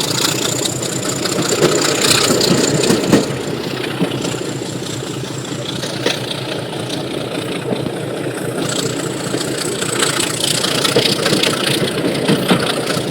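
Diesel train running under way, heard from aboard a carriage: a steady engine and running noise with a few sharp clacks.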